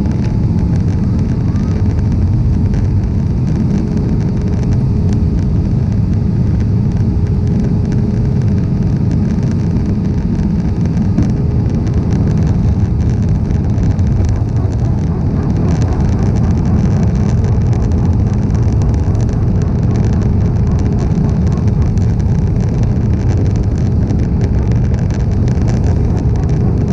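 Airbus A320-200 airliner's steady low roar of jet engines and rushing air, with a faint steady hum over it.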